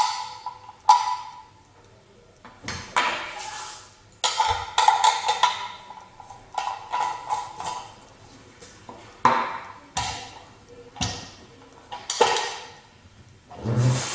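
Hard plastic and metal parts of a manual meat grinder knocking and clattering against each other and the counter as they are handled, with a dozen or so irregular sharp knocks, each ringing briefly.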